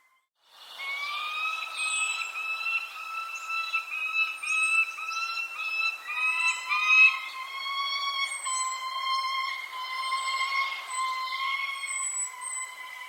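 Birdsong after a brief dropout: held, clear whistled notes, at first repeated in short even phrases and then drawn out, with short high chirps over them.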